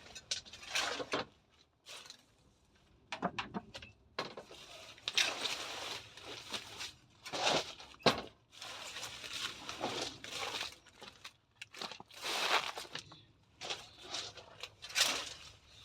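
Irregular rustling and crackling of hedge branches and leaves being handled and pulled, in uneven bursts with short pauses between.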